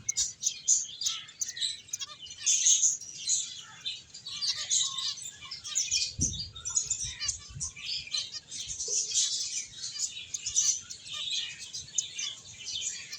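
Several finches chirping, many short high calls overlapping without a break, with a few soft low thumps about six seconds in.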